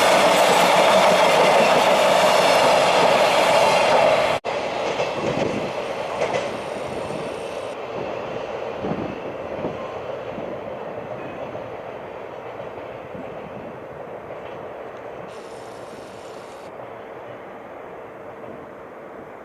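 Freight train rolling through a station at speed, its wagons clattering loudly over the rails; after an abrupt break about four seconds in, the rumble fades steadily as the train draws away.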